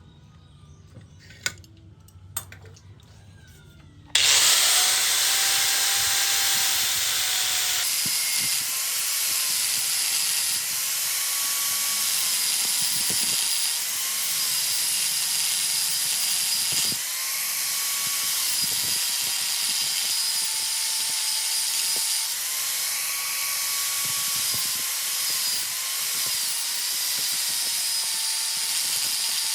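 A few light clicks, then a small electric power tool starts about four seconds in and runs steadily. Its high whine dips and rises in pitch as it is loaded, over a loud hiss.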